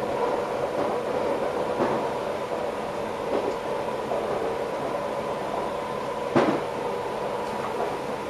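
Electric passenger train running, heard from inside the driver's cab: a steady rumble with a constant hum. There are a few light knocks from the track, the sharpest about six and a half seconds in.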